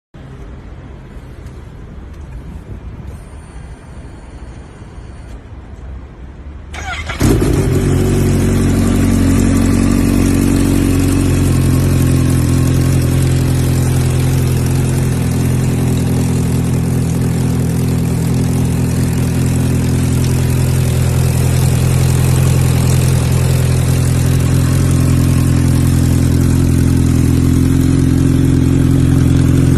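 Kawasaki Z H2 SE's supercharged inline-four engine starting about seven seconds in, then idling steadily.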